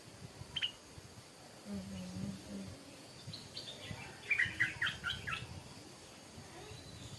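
Stripe-throated bulbul singing: a single short note about half a second in, then a quick phrase of many short notes around the middle. A brief low hum sounds about two seconds in.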